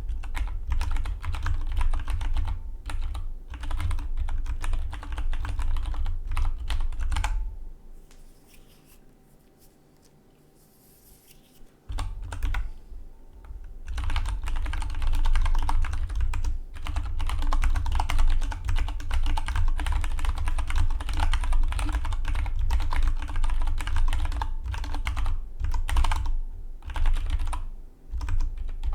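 Fast touch-typing on a Dygma Defy split mechanical keyboard: a rapid, continuous stream of key clacks with a deep thud under each press. About seven seconds in the typing stops for roughly four seconds, then picks up again, slowly at first and soon back to full speed.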